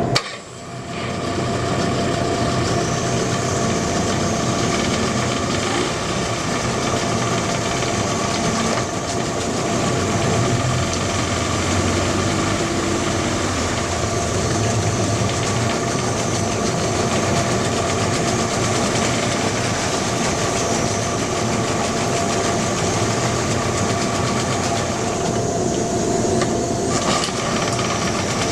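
Yamaha 25NEM two-cylinder two-stroke outboard motor running steadily. Its level dips briefly at the very start before settling, and its tone changes briefly about 25 seconds in.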